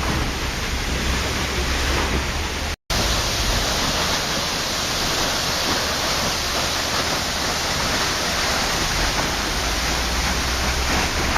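Waterfall rushing in a steady, dense roar of falling water. It cuts out completely for a split second about three seconds in, then resumes unchanged.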